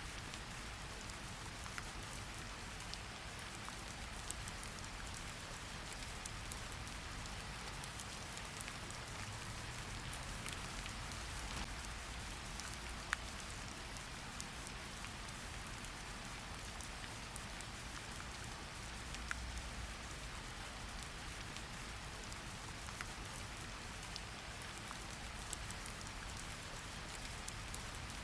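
Steady rain falling, a continuous hiss with scattered individual drops ticking on a surface, a few of them louder, about halfway through and later on.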